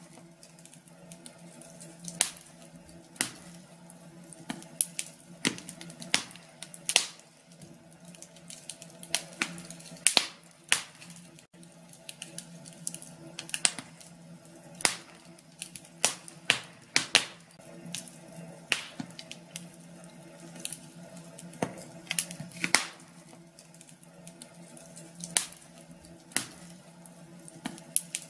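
Wood fire crackling in a fireplace: irregular sharp pops and snaps, a few loud ones standing out, over a soft steady hiss.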